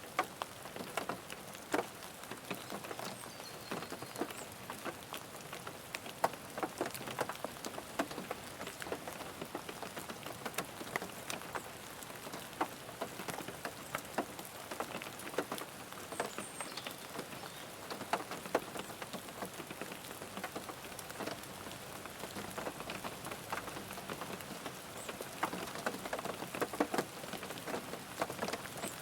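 Rain falling on a car's roof and windows, heard from inside the car: a steady hiss of rain with many separate drops tapping irregularly on the body.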